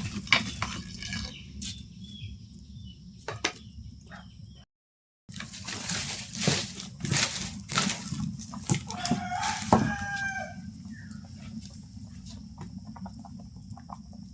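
Chickens clucking, with a few short pitched calls about two-thirds of the way through, over scattered sharp ticks and taps.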